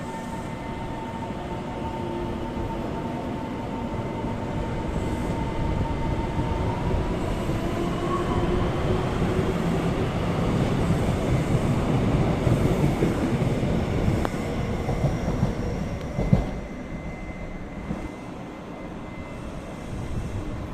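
A train passing by: its running noise grows louder to a peak about two-thirds of the way through and then fades away, with a single sharp clack shortly after the peak.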